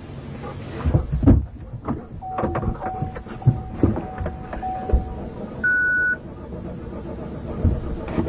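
Damaged patrol car's warning chime sounding in short repeated pulses and a single higher beep, among clicks and knocks, while the stalled car is being restarted; the engine starts and runs steadily at the very end.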